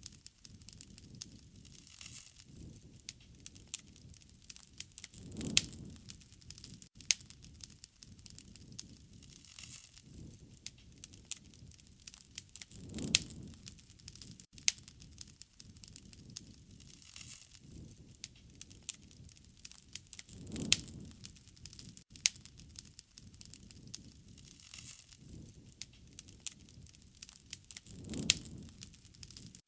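Wood fire crackling, with dense sharp pops and snaps throughout and a soft low swell about every seven to eight seconds.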